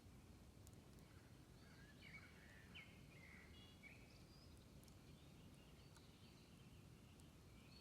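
Quiet outdoor ambience: birds chirping faintly a short way off, most around two to four seconds in, over a low steady rumble, with a few faint sharp ticks.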